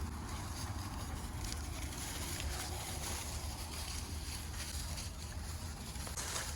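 Wind buffeting the microphone outdoors: a steady low rumble under a constant hiss, with a brief click near the end.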